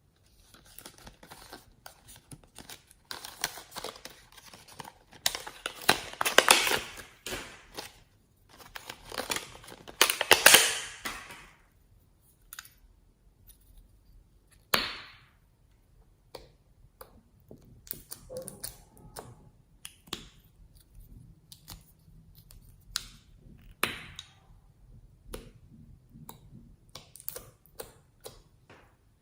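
Slime being squished and mixed by hand, with many sharp clicks and pops of trapped air and two louder stretches of wet crackling in the first half.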